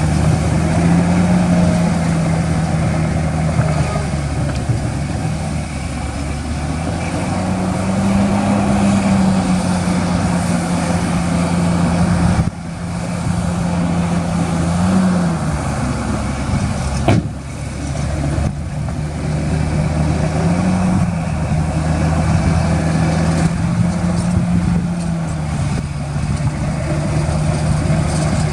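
Heavy diesel engine of earthmoving machinery running under load, its pitch rising and falling several times as it revs up and settles back. A single sharp knock sounds a little past halfway.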